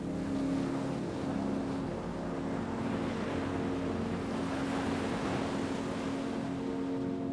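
Ocean waves washing, one surge building to a peak about five seconds in and easing off again. Under it runs a steady low drone of sustained tones.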